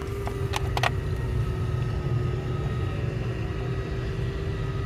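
A steady engine hum runs under a few light metal clicks in the first second, as a bolt is tried by hand in the Ford Transit's engine block.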